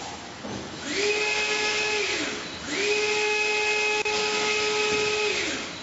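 A small electric motor spinning up to a steady whine and winding down again, twice, the second run longer.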